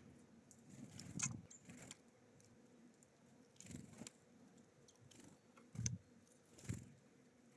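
Small birds at a feeder: faint scattered taps, clicks and thuds as they peck at the feeder, scatter seed and land, with a few louder knocks in the second half.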